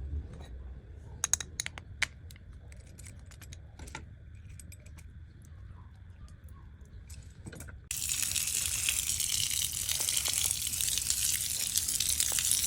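A few sharp clicks and taps of small parts being handled. About eight seconds in, a faucet is turned on and water suddenly starts running hard with a loud, steady hissing rush.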